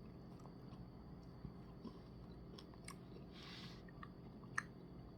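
Faint chewing on a mouthful of Frosted Animal Cookie Blizzard soft-serve, with scattered small clicks and one sharper click near the end.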